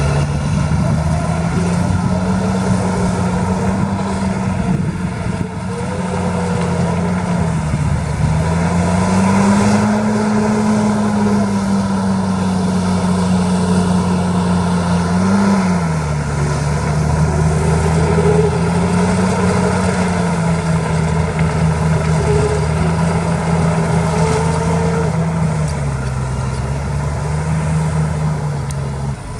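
Heavy diesel engine of earthmoving machinery running under changing load, its revs rising and falling several times.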